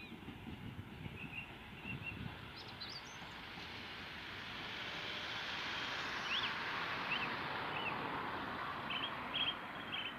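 Small birds chirping in short repeated calls, heard over a broad rushing noise that swells through the middle and eases near the end.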